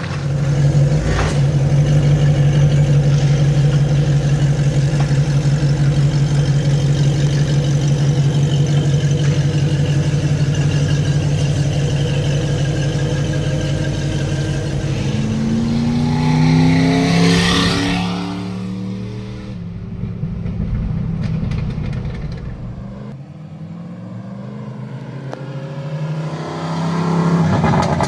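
Jeep Grand Cherokee 5.9 V8 running through headers and a dual exhaust, held at a steady engine speed for about fifteen seconds, then climbing and falling in pitch as it is revved. It eases off to a quieter run and picks up again near the end.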